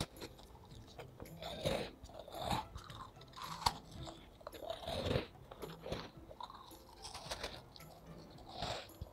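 A person biting into and chewing a crisp, crumbly piped butter cookie, with short crunches about once a second.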